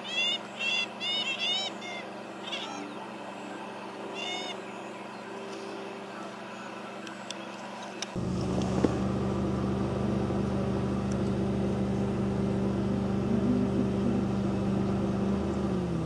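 Bird calls: a quick run of short, arched, repeated notes in the first two seconds, then a couple more a few seconds later. About eight seconds in, a steady low engine hum begins abruptly and runs on.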